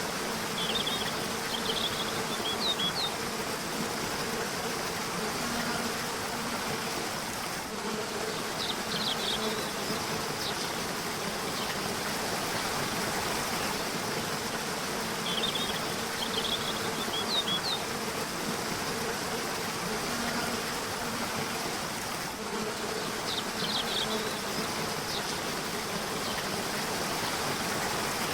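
Steady rush of river water, with a low, even hum beneath it. Short groups of high bird chirps come four times, about every seven seconds.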